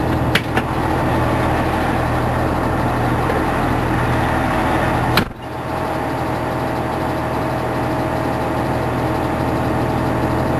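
Fire engine's engine running steadily, a low even hum, with a sharp click and brief drop about five seconds in.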